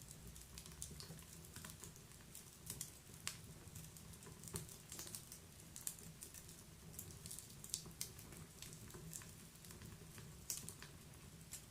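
Wood fire in a fireplace crackling: irregular sharp pops and snaps over a faint low rumble of the flames.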